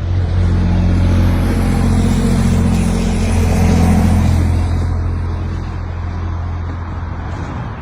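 A motor vehicle's engine running steadily, a low hum with a hiss of noise over it, easing off slightly in the second half.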